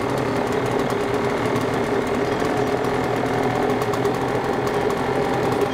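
Husqvarna 150BT X-Torque backpack blower's two-stroke engine running steadily just after a cold start, primed three times and choked.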